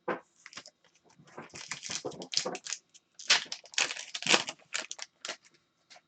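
Crinkling and crumpling of a trading-card pack wrapper being handled, in a dense run of irregular crackles that is loudest in the middle.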